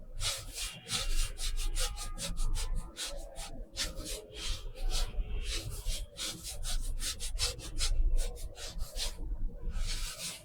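Quick strokes of an art tool rubbing across paper, several a second, with short pauses between runs of strokes.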